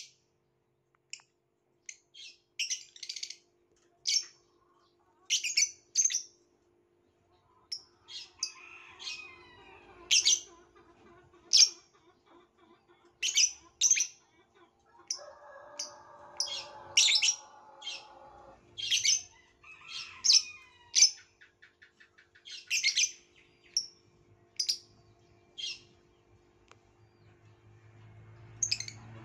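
Violet lovebird calling with short, sharp, high chirps, roughly one or two a second at irregular spacing, with a stretch of lower, rougher chattering a little past halfway.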